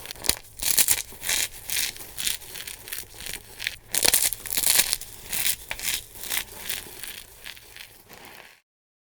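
Dry soap crunching and crumbling as it is crushed: a fast, irregular run of crisp crunches that stops abruptly near the end.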